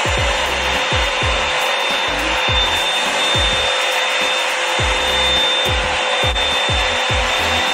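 Revlon One-Step hot-air brush dryer running on its high setting: a steady rush of air with a high motor whine, pretty loud.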